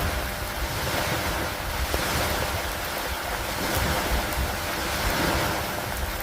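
Steady rain falling on a wooden dock and lake water, an even hiss with a low rumbling underneath and a few sharp drop ticks.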